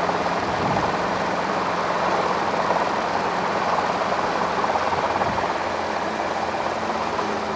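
Robinson R22 helicopter heard from inside the cabin: a steady rush of engine and rotor noise, with a faint low hum underneath, as it hovers or sits at the landing spot.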